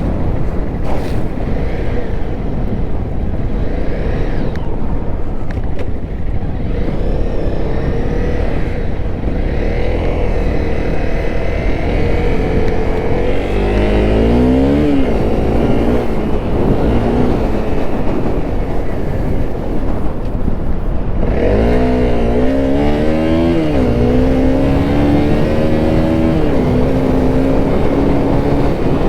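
Honda CRF250L's single-cylinder four-stroke engine running under way, revving up and dropping back twice, around the middle and again about two-thirds through, then holding a steady pitch. Heavy wind rush on the microphone runs underneath.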